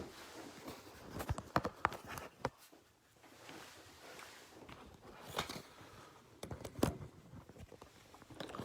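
Irregular clicks, knocks and rustles of someone handling and setting up a phone or recording gear, with a few brief stronger knocks in clusters.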